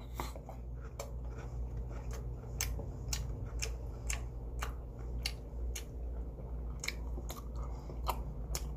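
Close-up chewing of marinated pork ribs (dwaeji galbi), a run of sharp, irregular wet mouth clicks, about two a second, over a low steady hum.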